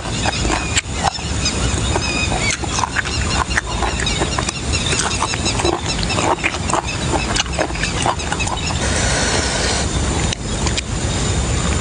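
Close-miked chewing and mouth sounds of someone eating boiled beef tripe and raw leaves dipped in chili sauce: a rapid, irregular run of wet smacks and clicks.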